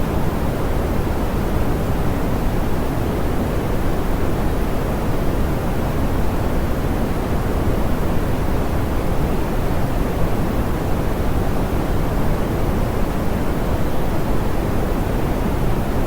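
Steady, soft pink noise: an even, unbroken hiss weighted toward the low end, like a muffled rush of air or distant surf.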